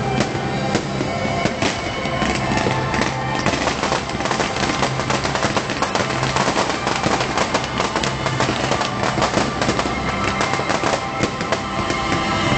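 Fireworks going off in rapid succession, a dense run of crackling and popping bursts, with show music playing underneath.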